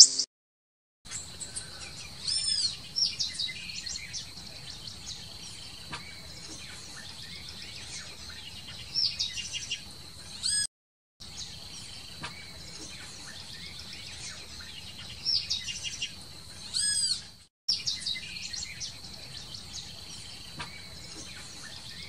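Small birds chirping in short rising-and-falling calls, clustered every few seconds over a steady high-pitched hum. The sound cuts out briefly twice.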